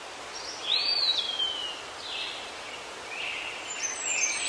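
Birds calling over a steady outdoor hiss: short whistled chirps, with one arching whistle that rises then slides down about a second in, and a flurry of higher chirps near the end.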